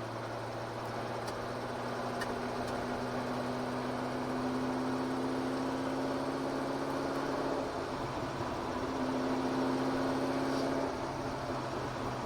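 Ford GT40's V8 engine running at low, steady revs while the car is driven slowly, heard from the cockpit. Its note climbs gently, dips about eight seconds in, then rises again and eases off near the end.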